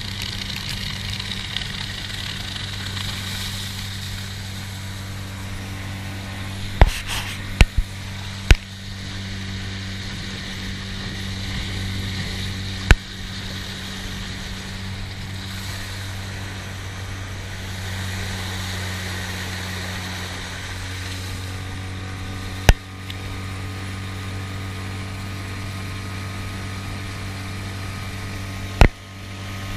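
Mercury 9.9 hp outboard motor running steadily, with water and wind noise, broken by about six sharp knocks.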